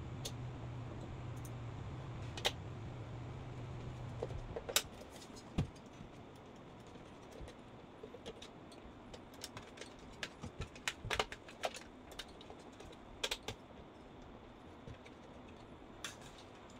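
A low steady hum that stops about four and a half seconds in, then scattered small clicks and taps from tools and parts being handled during the repair.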